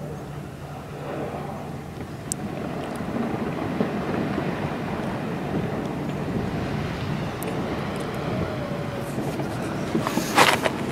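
A steady engine hum under a rushing noise that grows louder, with a few sharp knocks near the end.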